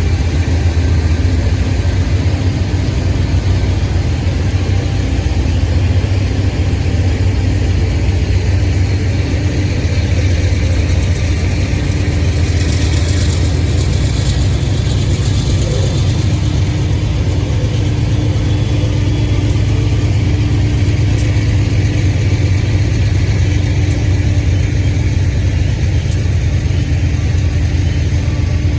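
Diesel freight locomotive engine running steadily, a deep even drone, with a brief hiss about halfway through.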